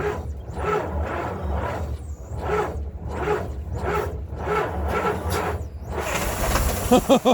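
The 1091 cubic inch Hall-Scott engine of a 1958 Mack B-21 fire truck being cranked slowly on its starter, turning over in a laboured rhythm of about one and a half strokes a second without firing. A short hiss comes near the end, and then the cranking stops.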